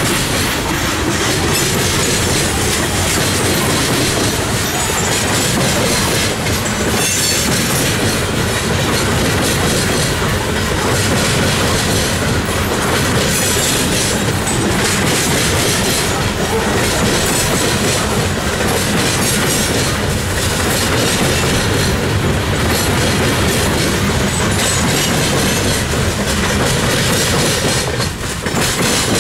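Loaded coal hopper cars of a freight train rolling past close by, steel wheels clacking steadily over the track joints. Near the end the last car goes by and the sound drops away.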